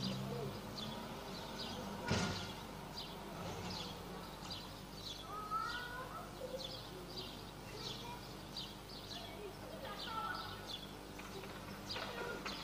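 Small birds chirping over and over, short high chirps about two a second, against a steady background hum. One sharp knock about two seconds in.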